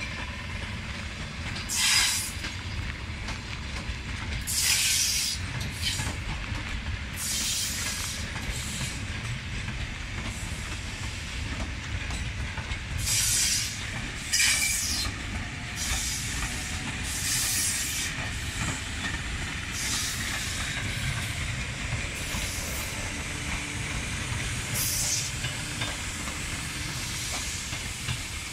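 Electric commuter train (EMU) passing at speed close by: a steady rumble of wheels on rails, with brief high hissing bursts every few seconds.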